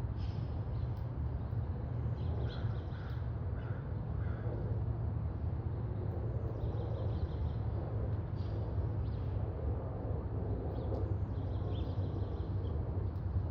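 House finches chirping in several short runs of high notes, over a steady low rumble.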